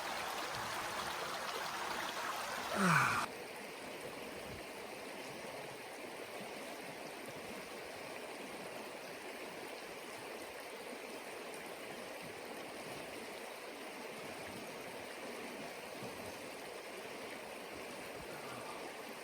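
Swift mountain river rushing steadily. About three seconds in a man gives a short falling sigh, and just after it the rushing suddenly becomes quieter and duller.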